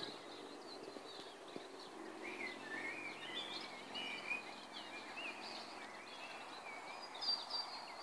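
Small birds chirping and warbling, many short varied calls one after another, over faint steady background noise.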